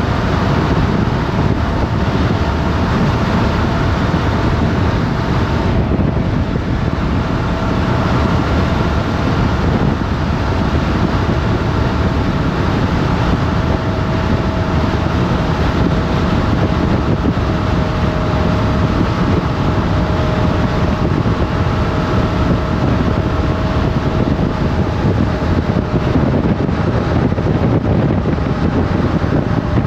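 Motorcycle engine running at a fairly steady speed, heavily buried under wind buffeting on the helmet- or bike-mounted camera's microphone.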